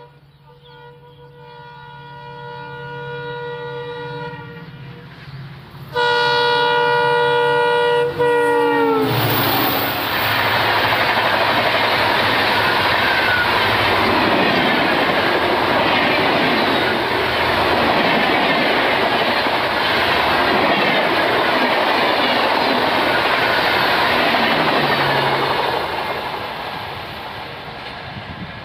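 Diesel-hauled express train passing at speed, about 130 km/h. The locomotive's horn sounds first as a long blast growing louder, then as a much louder blast whose pitch drops sharply as the locomotive goes by. The coaches then rush past with a loud, even rattle of wheels on the rails, which fades near the end.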